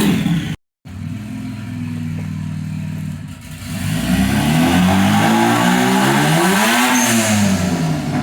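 Turbocharged 2.7L V6 of a 2005 Hyundai Tiburon running through a hood-dump exhaust: idling steadily, then revved up from about four seconds in, with a rev that climbs and falls back near the end. The sound cuts out for a moment just after the start.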